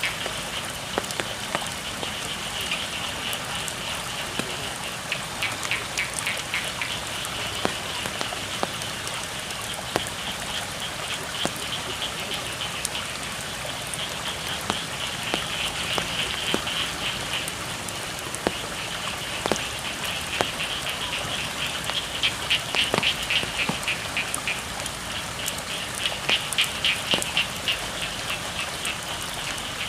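Steady rain falling on flooded rice paddies, with scattered louder drops. Over it, frogs call in fast pulsing trills that swell and fade several times.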